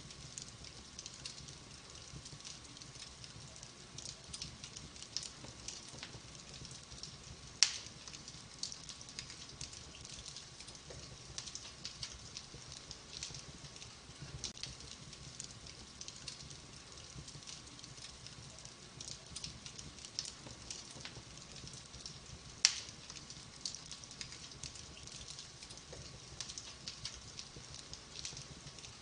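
Wood fire crackling in a fireplace: a steady patter of small crackles with two sharp, loud pops, one about a quarter of the way in and one about three-quarters of the way in.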